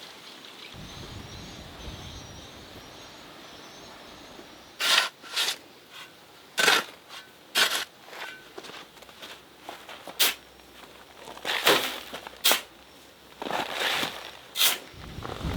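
Faint high bird chirps over a steady outdoor hiss, then from about five seconds in a series of irregular sharp knocks and taps, about a dozen in all.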